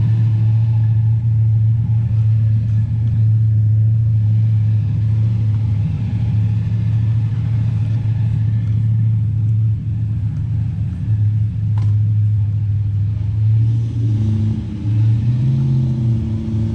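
A car engine running loud and steady at held revs during a burnout. Near the end its pitch wavers, dipping and rising.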